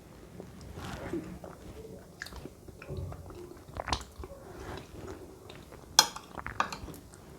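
Close-up chewing of soft matoke (plantain porridge), wet mouth noises, with a few sharp clicks; the loudest is about six seconds in.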